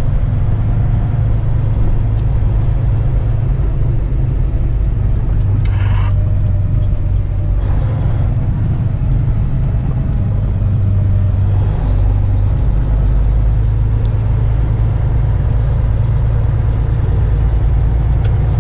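Kenworth semi-truck's diesel engine running steadily at low speed, a constant low drone heard from inside the cab. A short higher hiss comes about six seconds in.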